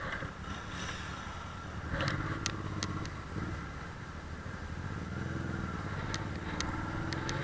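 Honda CB250 Hornet's 250cc inline-four engine running while riding, heard from the rider's camera, its pitch rising over the last couple of seconds as it accelerates. A few short sharp clicks sound about two to three seconds in and again near the end.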